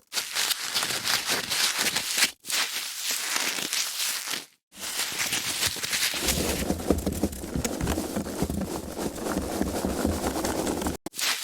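Foam packaging being handled, making a dense crackling with many fine rapid clicks, in several takes cut apart by brief silences. In the second half a deeper rumble of handling runs underneath.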